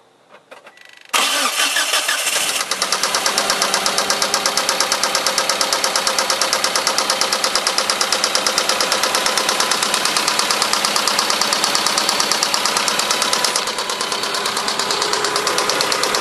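Eagle Talon's 4G63 four-cylinder engine starting for the first time on a replacement block: it cranks and catches about a second in, then runs with a loud, fast, even rod knock, the sign of a bad connecting-rod bearing in a block that was sold as good. Near the end it settles slightly quieter.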